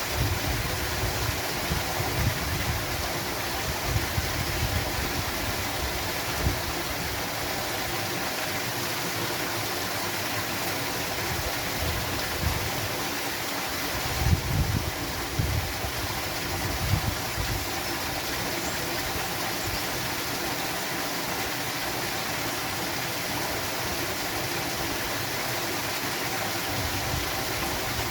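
Steady rush of flowing water from a waterfall-fed stream, with irregular low rumbles now and then, strongest about halfway through.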